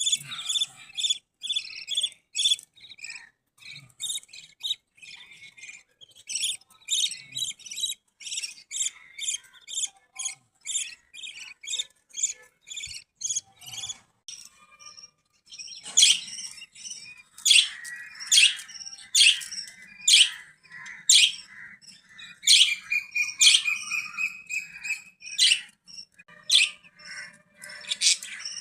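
Budgerigars chirping in quick runs of short high calls, louder from about halfway through, with one longer trilling note about three-quarters of the way in.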